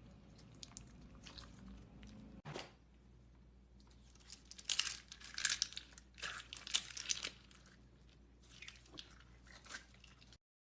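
Slime being squeezed and worked by hand, making sticky crackling and popping clicks that come in dense clusters through the middle, before the sound cuts out abruptly near the end.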